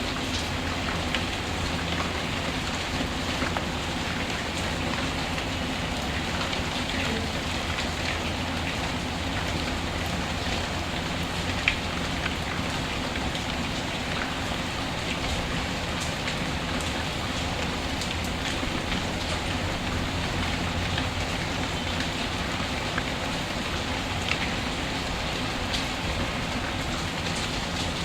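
Steady rain falling, mixed with the occasional sharp crackle of a wood fire in a fireplace.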